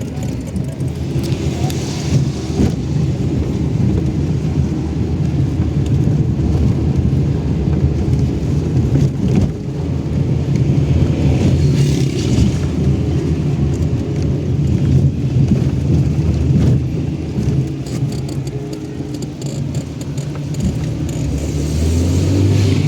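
A car running with a steady low rumble of engine and road noise, with a few short rises of hiss.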